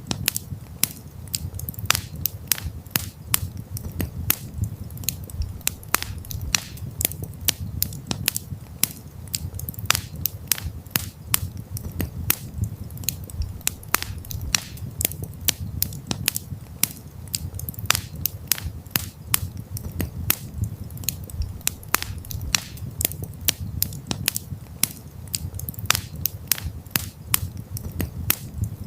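Wood campfire crackling: frequent sharp, irregular pops and snaps over a low, steady rumble.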